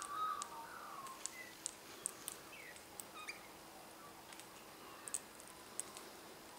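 Wild birds calling sparsely: scattered short, sharp high chirps with a few brief downward-sliding calls, over a quiet outdoor background.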